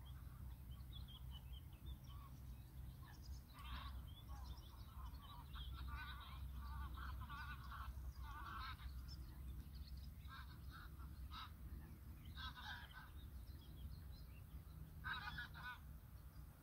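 Birds calling again and again in short wavering bursts, faint, over a steady low rumble.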